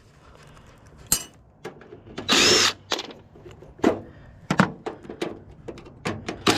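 A power tool runs in one short burst about two seconds in, among scattered knocks and clanks of metal parts being worked loose.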